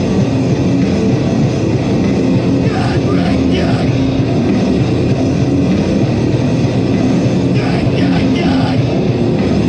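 Live heavy band playing loud, dense, distorted music with no break, with crashing cymbals about three seconds in and again near the end.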